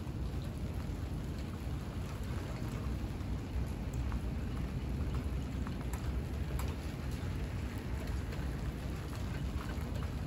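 Steady rain falling, with scattered single drops ticking close by and a low rumble underneath.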